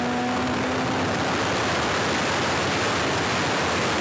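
Steady rushing wind and road noise from a car at speed during a roll race. A steady held tone fades out in about the first second.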